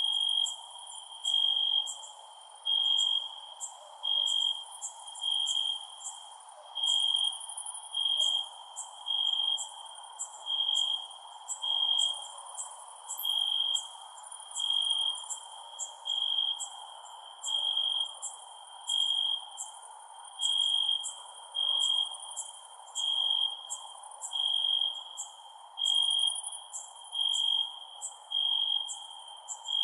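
Crickets chirping at night. A loud, evenly pulsing chirp repeats about every second and a half, with many quicker, higher-pitched chirps from other insects and a steady chorus lower down.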